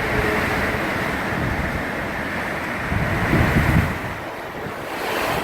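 Hurricane winds blowing steadily at about 70 to 80 mph through an open door, with heavier gusts buffeting the microphone as low rumbles about three seconds in.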